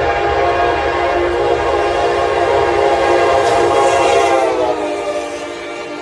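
Diesel locomotive's multi-tone air horn sounding in one long blast. About five seconds in, its pitch drops and it fades as the train goes by.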